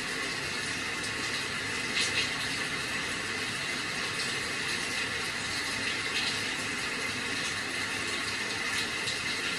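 Steady rain: an even hiss with a few brief, louder drop sounds scattered through it.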